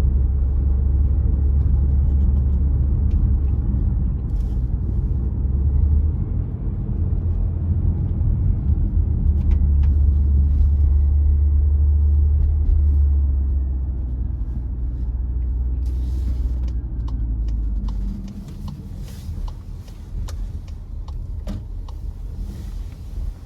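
A car driving, heard as a steady low rumble of engine and tyres that shifts in level a few times. About three quarters of the way through the low rumble drops off, leaving a quieter road noise with scattered short clicks and crackles.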